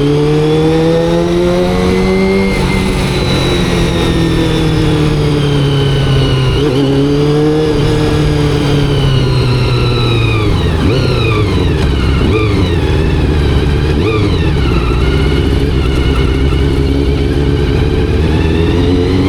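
Honda CBR400RR's carbureted inline-four engine on the move: revs climb, hold, then fall in several quick stepped drops as the bike slows. It runs low and steady for a few seconds, then the revs climb again near the end.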